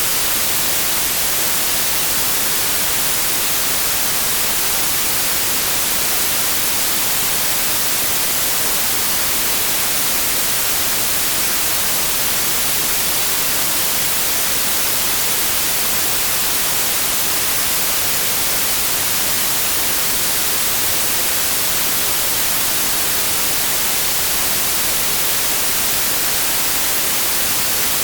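Steady, unchanging white noise: an even hiss with no tones, rhythm or events.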